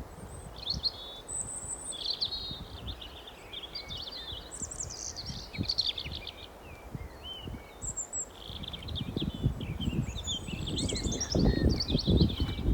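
Several small birds chirping and singing in quick, overlapping phrases. Low rumbling thumps build up over the last few seconds.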